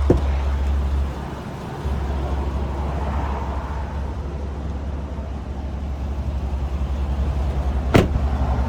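Chevrolet Silverado 2500HD pickup's engine idling, a steady low rumble, with a sharp click just after the start and another near the end.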